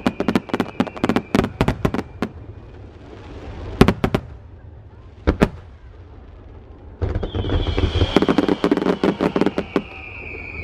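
Fireworks going off: rapid crackling bursts, then a quieter stretch with a few single sharp bangs, then dense crackling again from about seven seconds in with a long high whistle slowly falling in pitch.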